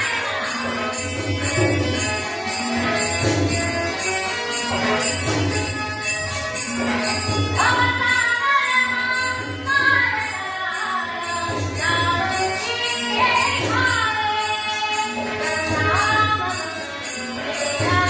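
A woman singing a Dashavatar folk-theatre song over a steady drum beat with jingling percussion.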